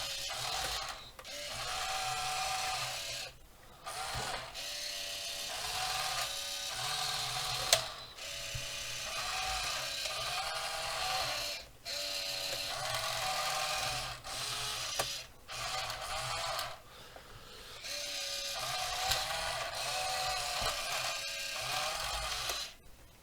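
Small electric gear motors of a 1:28 scale RC wheel loader whining in about a dozen short bursts of one to three seconds as it is driven and steered, starting and stopping. A sharp click comes about eight seconds in.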